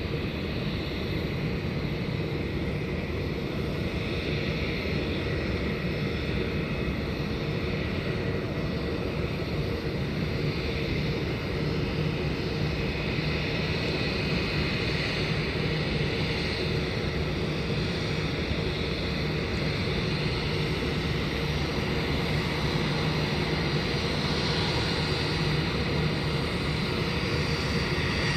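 Jet airliner engines, a steady rumble with a faint high whine, growing a little louder near the end.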